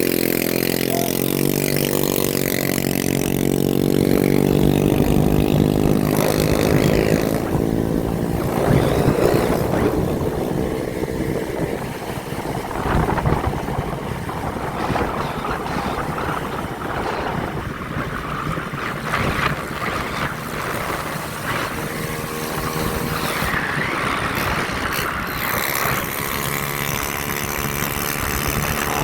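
A motorbike engine running steadily, its pitch shifting up and down a few times as the throttle changes.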